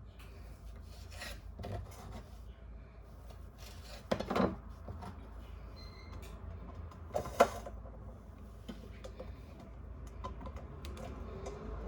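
Kitchen preparation sounds: rubbing and scraping with scattered light clicks, and two louder short knocks about four and seven seconds in.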